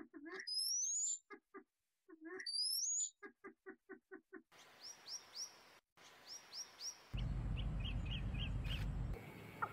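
Birds calling: two loud, high rising whistles about two seconds apart, between runs of rapid low pulsed calls at about five a second. Past the middle, softer repeated chirps, and a low rumble for about two seconds near the end.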